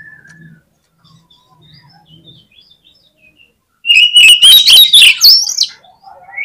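Oriental magpie-robin (kacer) singing: faint scattered chirps, then about four seconds in a loud burst of rapid, chattering notes that climb high, lasting about two seconds. It is the song of a bird in full voice, the kind played to provoke other kacer into singing.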